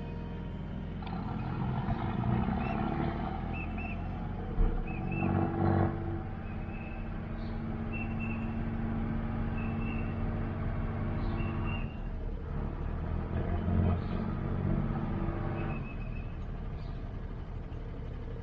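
Motorboat engine running steadily with a low hum that swells a little twice.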